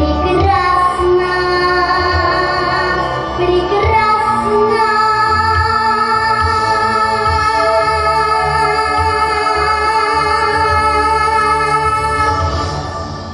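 A young girl singing with instrumental accompaniment, holding a long final note with vibrato; the music then fades out near the end.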